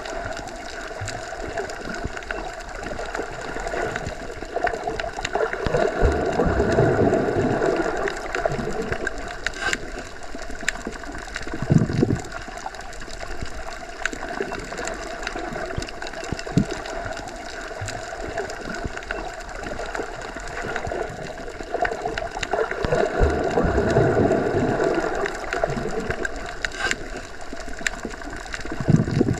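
Underwater ambience: a steady muffled water rush as heard with the ears submerged, swelling louder twice, with a few short low thumps.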